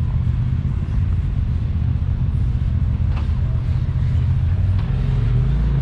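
Side-by-side UTV engine running steadily at low speed, a low rumble.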